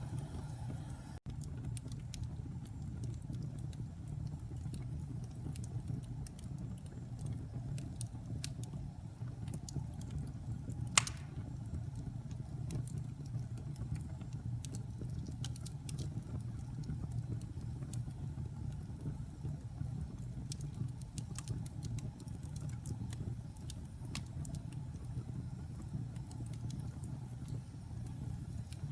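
Wood fire burning in a fireplace: a steady low rumble of flames with scattered small crackles and snaps, and one sharper pop about a third of the way in.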